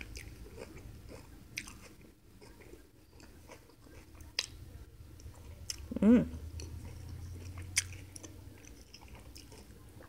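A person chewing a bite of chicken sausage hot dog in a soft bun, with scattered small crunchy clicks. About six seconds in comes a short hummed 'mm' that falls in pitch.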